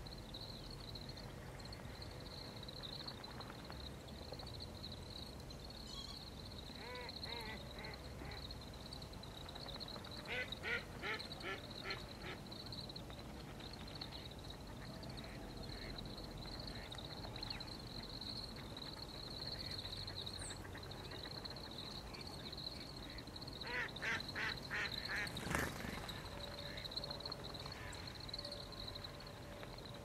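Birds calling: three short runs of rapid, evenly spaced calls over a steady faint high-pitched hiss, with a single sharp click near the end of the last run.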